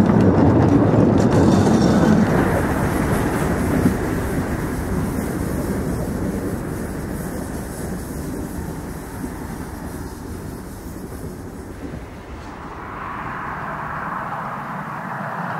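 A narrow-gauge train's open passenger carriages run past on the rails and draw away, their wheel-on-rail rumble loud at first and fading steadily. A fainter, steadier sound takes over near the end.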